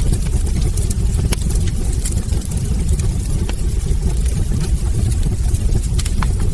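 Wood fire burning in a fireplace: a steady low rumble of the flames with frequent sharp crackles and pops from the logs, one especially sharp pop near the end.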